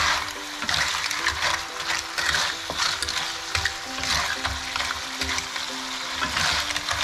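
Lala clams in chilli sambal sizzling and bubbling in a pan, with repeated scraping and clinking from stirring.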